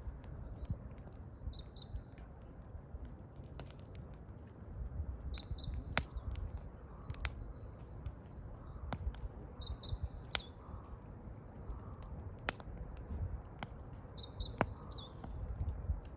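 Wood fire burning with sharp crackling pops, while a small wild bird sings a short, high chirping phrase about every four or five seconds.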